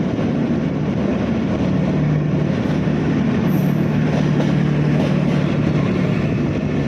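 Passenger train running along the track: a steady rumble of wheels on rails with a low hum under it.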